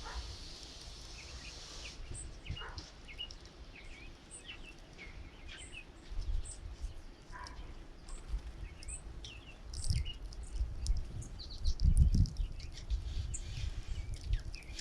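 Many small songbirds chirping in short, scattered calls around a feeder. Low rumbling gusts of wind hit the microphone, growing stronger near the end.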